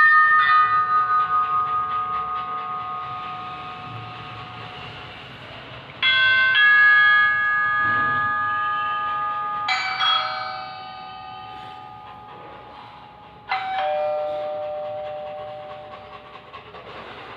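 A doorbell-style chime sounds four times, a few seconds apart. Each chime is a cluster of ringing tones that fades away slowly.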